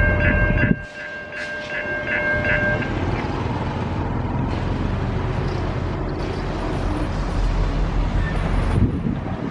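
Railway level-crossing warning bell ringing in quick, even pulses over a loud low train rumble. The rumble drops off abruptly under a second in and the bell stops about three seconds in, leaving wind and a lower rumble.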